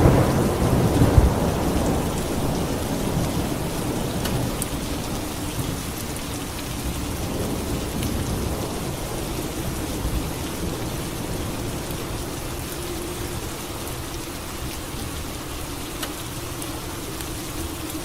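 Steady rain with a roll of thunder that fades away over the first few seconds.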